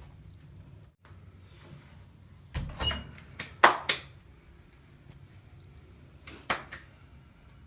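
A few sharp knocks and clatters: a cluster from about two and a half to four seconds in, then one more about six and a half seconds in. They fit a wood-burning stove being loaded and lit.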